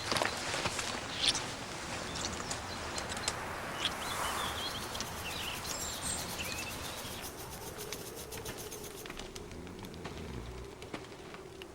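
Birds chirping over steady outdoor background hiss, with a fast, high ticking trill for a few seconds in the middle.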